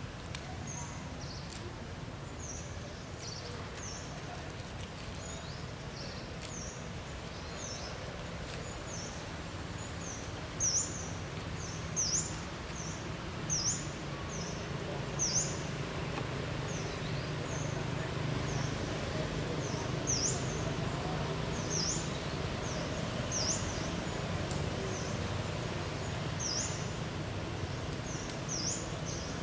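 A small bird chirping over and over in short, high notes, about one or two a second, over a steady low outdoor background rumble. A few brief louder bumps come near the middle.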